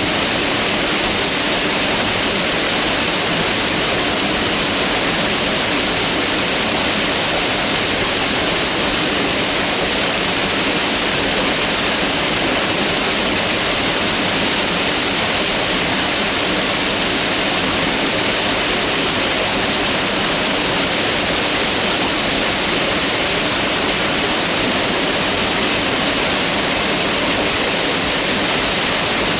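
Mountain river rushing over rocks: a steady, unbroken rush of water with a bright hiss.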